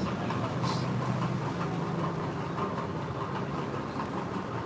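An engine idling steadily, with a brief hiss just under a second in.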